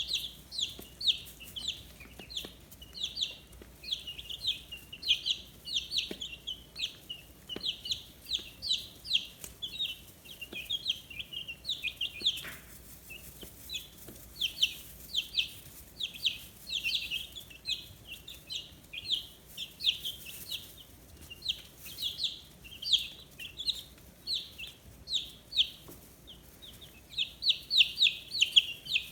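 A brood of fifteen-day-old chicks peeping without pause: many short, high chirps that each drop in pitch, overlapping from several birds at once.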